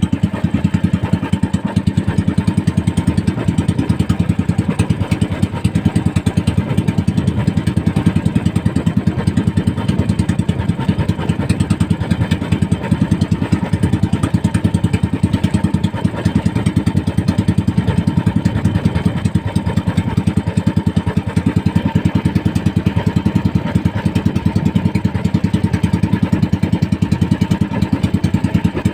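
A small single-cylinder boat engine running steadily at a constant speed, with an even, fast firing pulse.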